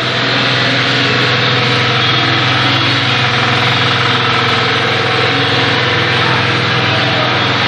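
Rectangular ventilation-duct production line running after being started, sheet-metal processing machinery giving a steady hum with dense mechanical noise. It comes up to full level right at the start and then holds even.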